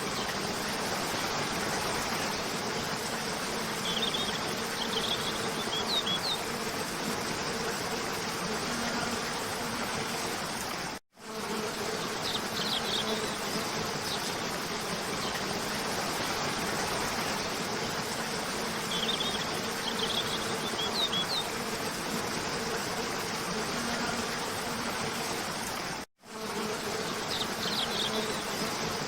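Steady rush of a cascading waterfall with a low steady hum under it and short bird chirps in small groups every several seconds. The sound cuts out for a moment twice.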